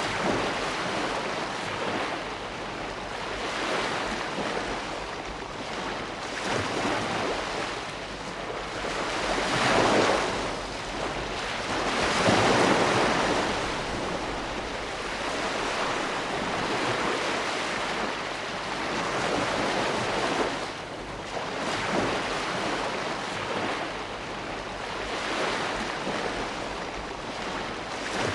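Ocean surf: a continuous rush of waves that swells and ebbs, with the loudest surges about ten and twelve seconds in.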